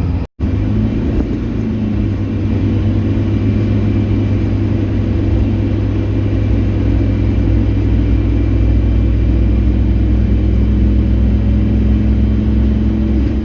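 Ford Courier ute driving along, heard from inside the cab: a steady engine and road rumble with no change in pace. The sound drops out briefly just after the start.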